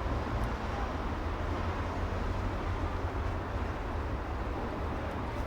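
Steady city street traffic rumble, a continuous low hum of vehicles with no single car, horn or voice standing out.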